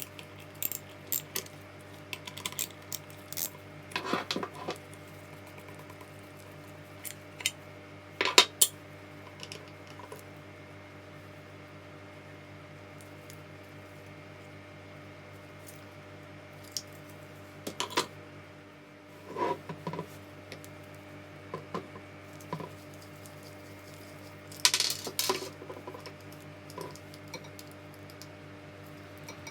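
Small metal parts and tools clinking and knocking on a hard surface in scattered taps and short clatters. A steady low hum runs underneath.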